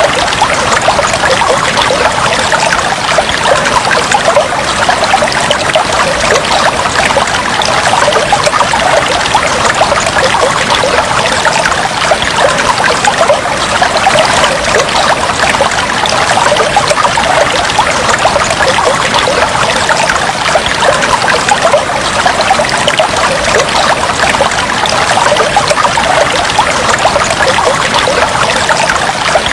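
Fish tank water trickling and bubbling steadily, a dense, even patter of small splashes.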